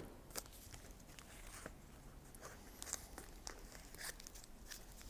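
Masking tape being handled and pressed down over plasticine and corrugated cardboard: faint crinkling and scattered small ticks.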